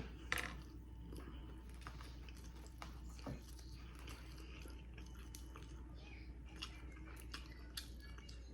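A person chewing food close to the microphone: soft, scattered mouth clicks and small crunches, slightly louder about half a second and three seconds in.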